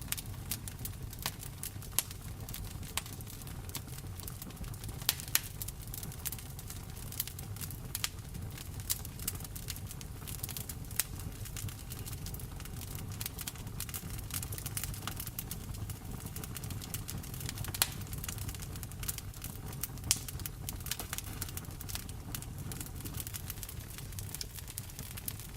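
Wood fire in a fireplace crackling, with frequent irregular sharp pops over a steady sound of rain.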